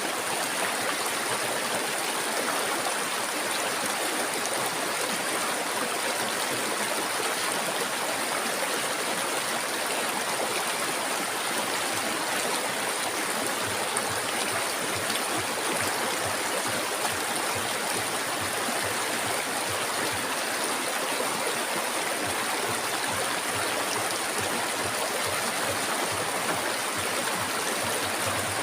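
River water flowing steadily over rocks, an even rushing with some gurgling, and a steady high hiss above it.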